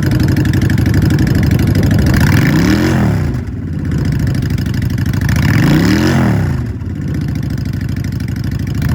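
2015 Honda Shadow Phantom 750's liquid-cooled, fuel-injected V-twin with a Vance & Hines exhaust, idling and revved twice, about three and about six seconds in, each rev rising and falling smoothly back to idle.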